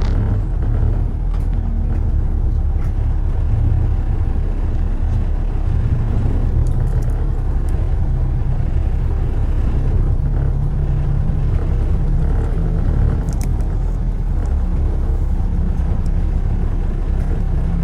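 Steady low rumble of a car driving on city streets, engine and tyre road noise with no change in level.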